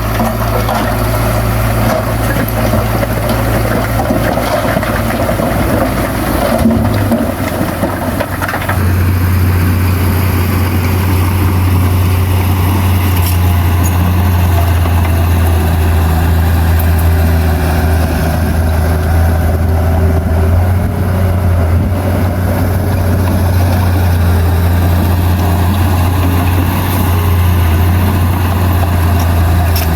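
Heavy diesel engine of earthmoving machinery running steadily with a deep drone. Its note changes about eight seconds in, then holds even.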